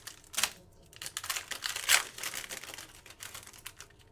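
Trading cards being handled: cards sliding and flicking against one another, with a run of short dry swishes and clicks, the sharpest about two seconds in.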